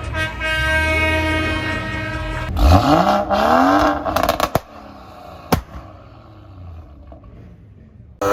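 A vehicle horn held on one steady note for about two and a half seconds. Then an engine revs up and falls back, with a few sharp cracks just after, before things settle to a quieter background.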